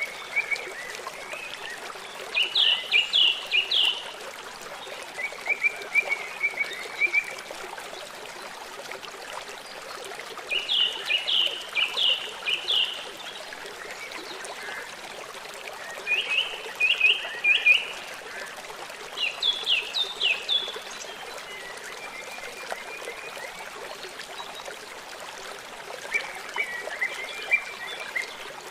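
A stream or river flowing steadily, with a songbird singing short phrases of quick, high notes every few seconds over it.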